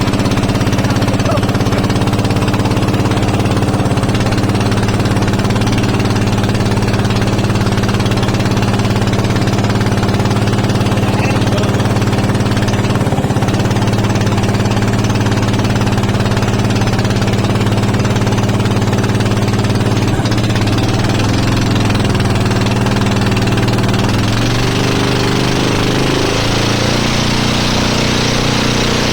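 Motorboat engine running at a steady speed, loud and unbroken, with its pitch shifting briefly near the end.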